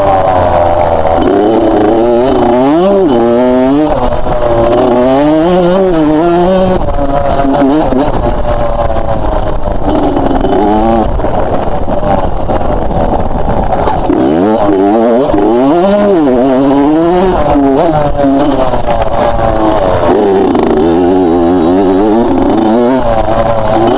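Two-stroke motocross bike engine revving hard, its pitch climbing and dropping over and over as the throttle is opened and shut.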